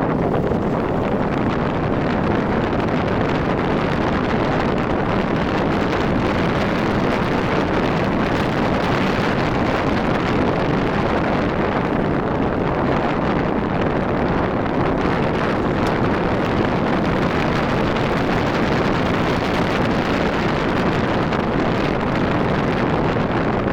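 Steady wind rush on the microphone of a riding Rusi RFI 175 motorcycle, mixed with road noise, with no clear engine note standing out.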